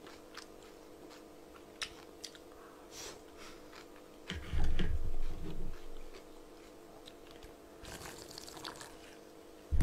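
Quiet chewing of a steamed dumpling with small mouth clicks. A dull low thump a little before halfway is the loudest sound. Near the end comes a short slurp as cold naengmyeon broth is drunk straight from the bowl.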